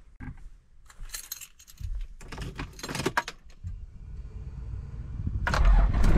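Keys jangling and clicks from the controls in a Toyota Land Cruiser 80 Series cabin. From about the middle, its 1HZ inline-six diesel engine runs with a steady low rumble that grows much louder near the end.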